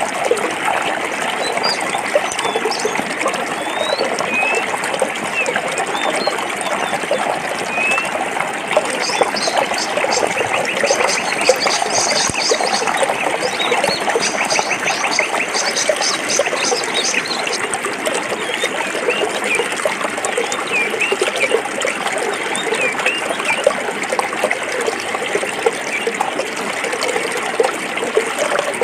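Forest stream flowing and gurgling steadily over rocks. Small birds chirp over it, with a fast, high trill from about a third of the way in to past the middle.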